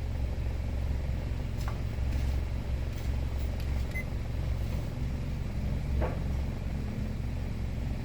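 Honda BR-V's four-cylinder engine idling steadily, with a short electronic beep about four seconds in and a couple of faint clicks.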